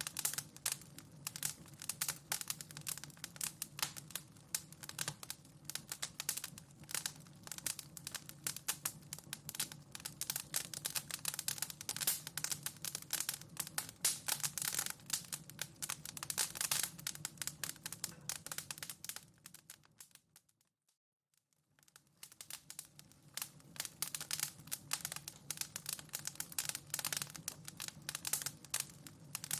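Wood fire crackling in a fireplace: a dense, irregular stream of small pops and snaps over a low steady rumble. About twenty seconds in it fades out to near silence for a couple of seconds, then fades back in.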